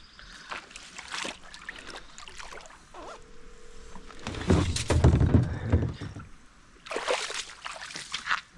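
Scuffs and knocks from kayak gear being handled, such as paddles, cushions and the boat, with a loud low rumble about halfway through.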